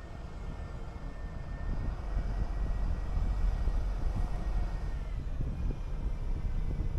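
City bus under way: engine and road rumble, growing louder about two seconds in.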